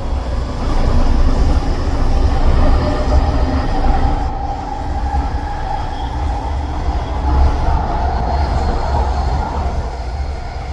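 SkyTrain car running along the track, heard from inside: a steady low rumble of wheels on rail. From about two seconds in until near the end, a higher whine runs over it.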